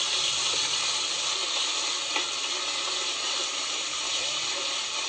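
Poke salad greens frying in a hot pan: a steady sizzle.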